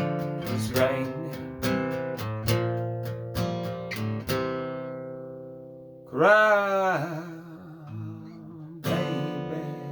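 Acoustic guitar picking a run of single notes that ring out and fade, then a wordless sung note that bends up and down with a slight waver, and a final strummed chord left ringing.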